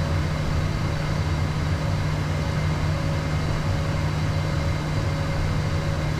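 Steady low drone of a Beechcraft Premier 1A jet's cockpit in flight, with a few faint constant tones above it.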